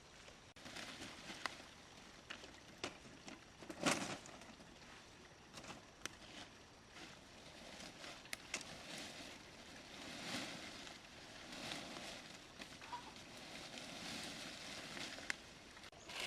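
Faint handling noises: scattered clicks and knocks with repeated swells of rustling or scraping, and one louder knock about four seconds in.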